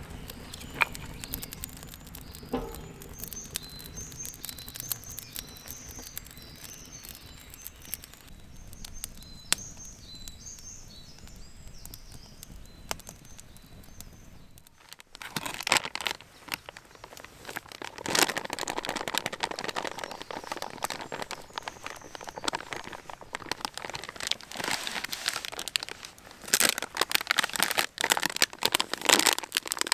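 Small birds chirping over light ticking for about the first half. After an abrupt cut about halfway, dense crackling and crunching with sharp irregular pops takes over.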